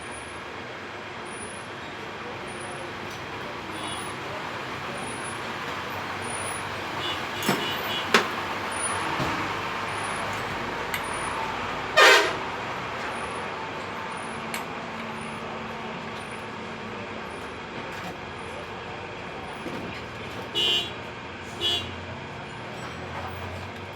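Road traffic passing steadily, with vehicle horns sounding: one loud blast about halfway through and two short toots near the end. A couple of sharp knocks come a third of the way in.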